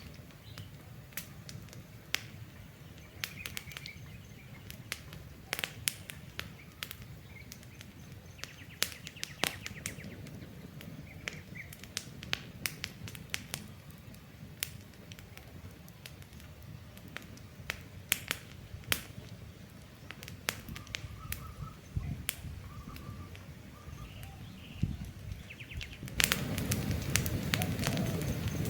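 Wood campfire crackling, with irregular sharp pops and snaps over a low steady rumble of the flames, growing louder about 26 seconds in. Birds chirp briefly now and then in the background.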